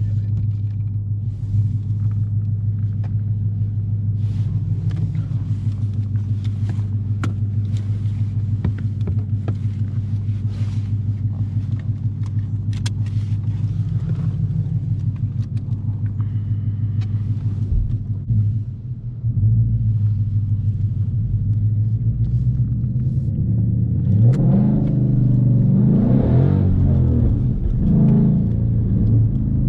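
Ford Mustang GT's 5.0-litre V8 running at a steady idle, with a brief dip about two-thirds through. It then revs up and pulls away, the engine note rising twice near the end.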